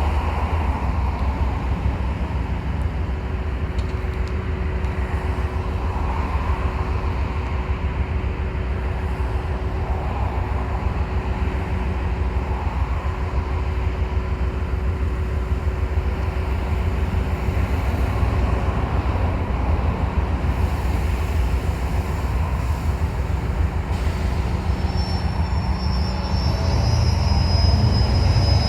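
TasRail locomotive TR15's diesel engine running steadily as it slowly moves the cement train up one wagon; the rumble grows louder over the last few seconds.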